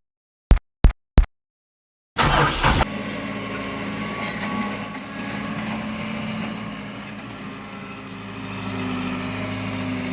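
Mini tractor engine: three clicks, then a brief loud rush of noise about two seconds in as it starts. It then runs steadily, easing off a little mid-way and picking up again near the end.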